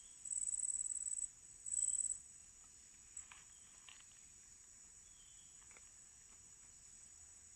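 Forest insects trilling high and steady, with louder stretches of trill in the first two seconds, then continuing more softly; a few faint short clicks are heard later on.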